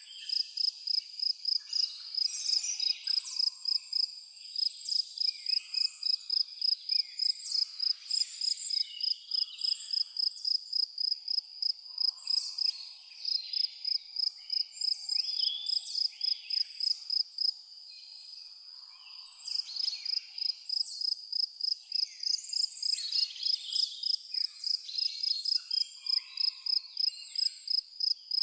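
A cricket chirping in a steady, even rhythm of about four high chirps a second, which stops for a couple of seconds about two-thirds of the way through and then resumes. Birds call and sing around it throughout.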